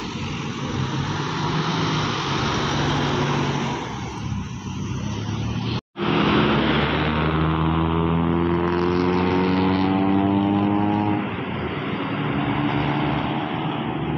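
Car engines running in slow-moving traffic. After a short break about six seconds in, one engine's pitch climbs steadily for about five seconds as it accelerates, then settles back.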